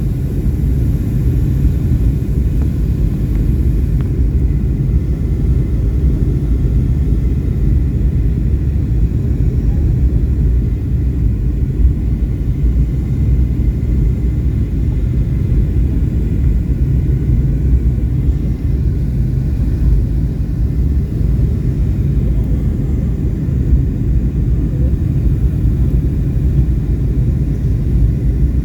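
Airliner cabin noise on the approach to land: a steady, loud low rumble of engines and airflow heard from inside the cabin.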